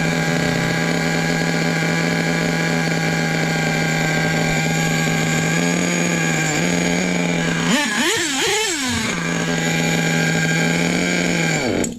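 Nitro RC truck's small glow engine running at a steady high pitch while its low-speed needle is adjusted to bring back its low end. About two-thirds of the way through, the pitch wavers up and down with a couple of quick throttle blips. Just before the end the note drops and cuts off.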